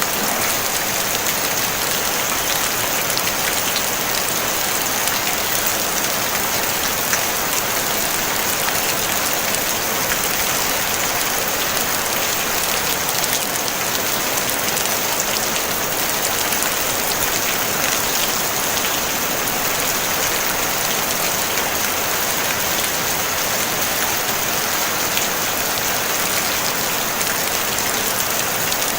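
Steady rain falling on a tin roof, a dense even hiss of drops with faint scattered pattering, no thunder.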